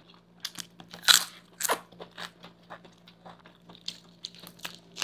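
Close-up crunching as potato chips and a chip-stuffed burger are bitten and chewed. The crunches are irregular and crisp, loudest about a second in and again shortly after, over a faint steady hum from an air conditioner.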